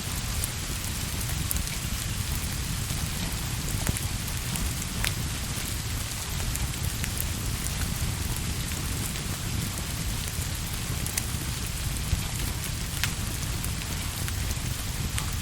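Steady rain falling, an even hiss with a deep rumble underneath, with a few sharp crackles from a fireplace scattered through it.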